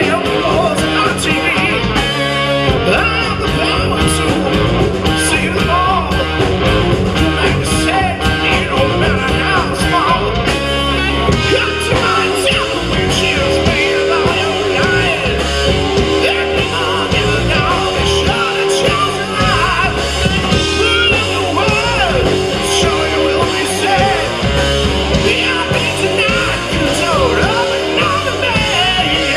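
Live rock band playing a song, loud and full, with electric guitars and drums.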